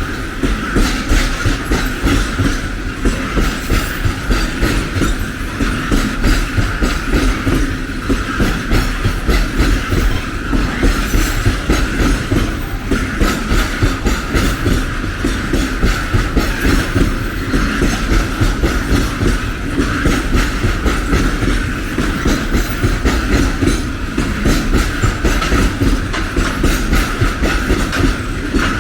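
A long train passing close by, its wagon wheels clicking over the rail joints in a steady, rapid rhythm over a continuous rumble, with a steady ring from the wheels on the rails.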